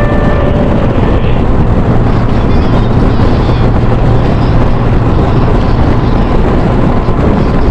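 Motorcycle running steadily at road speed: a constant low engine drone under a loud rush of wind noise.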